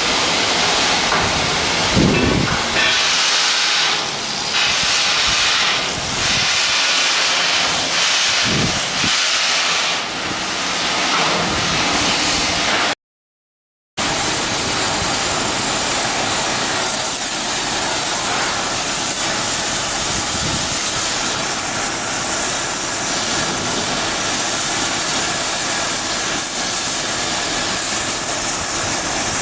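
Loud, steady hissing from shipyard work, cut off completely for about a second some 13 seconds in.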